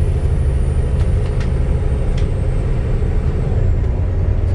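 Volvo B7TL double-decker bus running, a steady heavy low rumble with a few light clicks or rattles. A faint high whine slowly falls in pitch through it.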